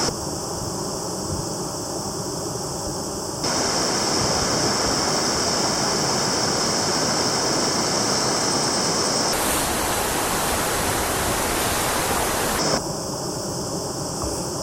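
Rushing water of a mountain stream or waterfall, a steady hiss with no pitch. Its tone and loudness change abruptly three times, about three and a half, nine and a half and thirteen seconds in.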